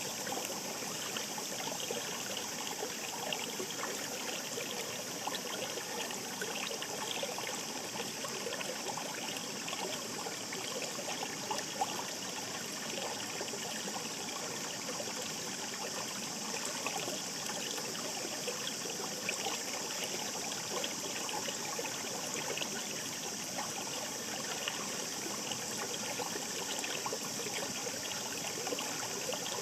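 Mountain stream babbling and trickling over rocks, a steady rushing of water with fine splashes and gurgles.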